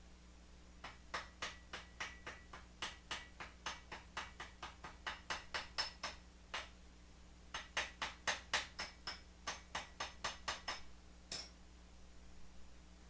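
Light metal-on-metal taps, about four a second, each ringing briefly. They come in two runs of several seconds with a short pause between, then one last tap.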